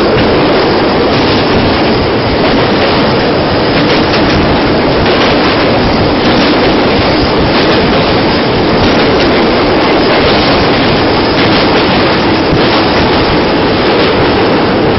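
Train running at speed, heard from an open window of one of its coaches: a loud, steady rumble of wheels on the track with irregular clatter.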